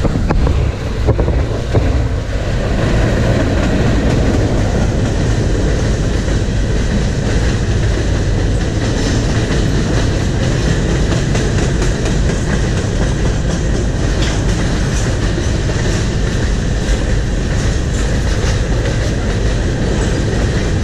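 Freight cars of a CPKC freight train rolling past close by: a loud, steady rumble of steel wheels on the rails.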